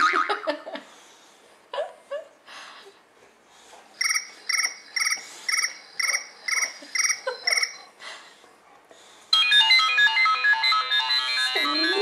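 iPhone ringtones playing from the phone's speaker: a short tone repeated about two and a half times a second for several seconds, then after a pause a busy melodic ringtone. Just before the end a white Boxer starts to howl along with a rising note.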